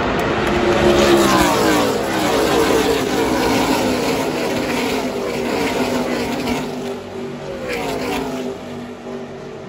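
NASCAR stock-car or truck field racing past at speed: several engines sweep by one after another, each falling in pitch as it passes, over a steady crowd-and-track roar.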